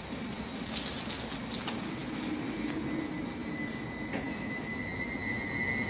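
Electric passenger train at a station platform: a steady low rumble with a thin high whine that grows louder in the second half, and a few light clicks in the first half.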